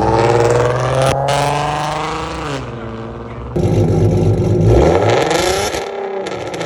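Ford Mustang 3.7 L V6 exhaust, run through long-tube headers, no catalytic converters, an X-pipe and Loudmouth resonators, revving. The engine note falls away as the revs drop. About three and a half seconds in it comes back suddenly louder with another rev, then falls again near the end.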